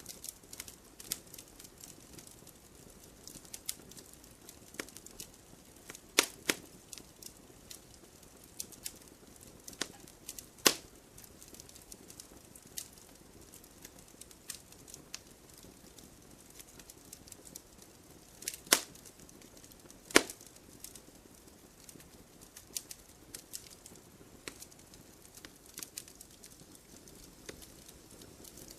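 Wood fire in a fireplace crackling: a soft steady hiss with irregular sharp pops and snaps, a few louder ones standing out.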